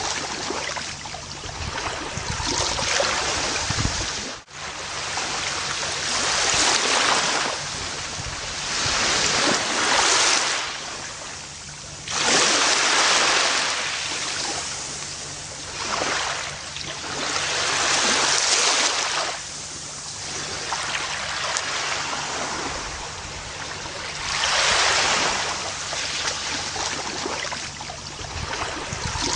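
Gentle ocean waves breaking and washing up a beach, the surf swelling and easing every few seconds, with a brief dropout about four seconds in.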